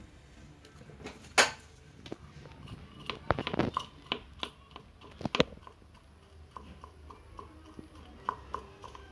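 Hands working a sticky lump of styrofoam melted in nail polish remover: irregular small clicks and taps, the sharpest about a second and a half in and a few more bunched in the middle.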